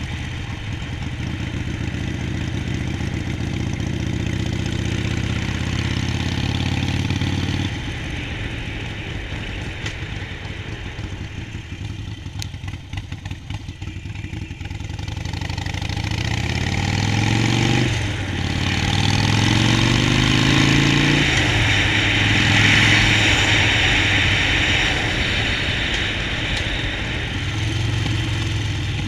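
Harley-Davidson Sportster Forty-Eight's 1200cc air-cooled V-twin on the move: running steadily, easing off about eight seconds in, then revving up through a gear, shifting about eighteen seconds in and revving up again. Loud wind noise over the microphone follows as the bike holds speed.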